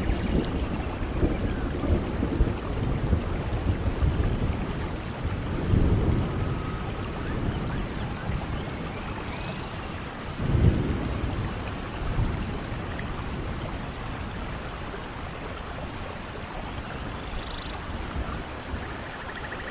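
Steady rain falling, with low rumbles of thunder, the loudest about halfway through.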